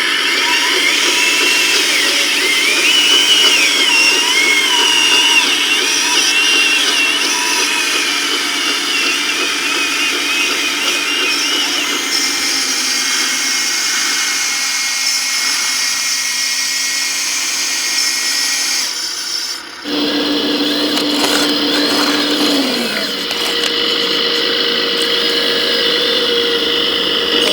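Small electric motors and hydraulic pumps of 1:14-scale radio-controlled construction machines whining as they work, their pitch wavering up and down as the machines move. The sound changes abruptly about twenty seconds in, to a different steady motor whine.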